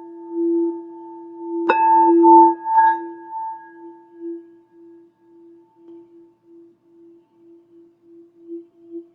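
Hand-held crystal singing bowl being played in circles around its rim: one steady, pulsing tone with ringing overtones. About two seconds in, a sharp knock on the bowl brings out brighter ringing that fades. The tone then drops to a soft, wavering pulse that swells again near the end.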